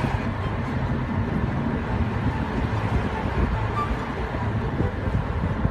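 Wind rushing past a moving car with its window open, over low road noise, with a steady, fluttering rumble.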